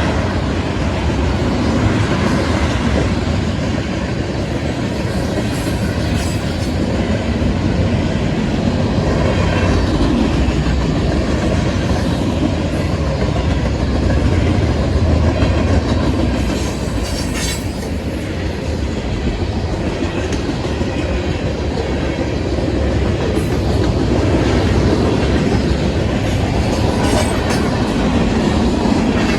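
Freight cars of a manifest train rolling steadily past, wheels clickety-clacking over the rail joints under a continuous low rumble. A few brief high metallic squeals or clanks come through, the clearest about 17 seconds in.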